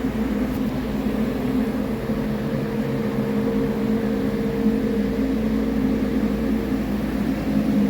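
2021 Detroit Diesel DD15 14.8-litre inline-six truck diesel engine running at a steady speed on a test run.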